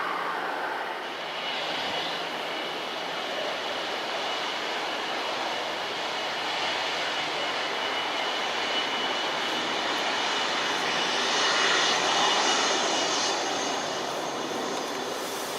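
Airliner engines running, a steady rushing noise with a thin high whine, growing louder about three-quarters of the way through.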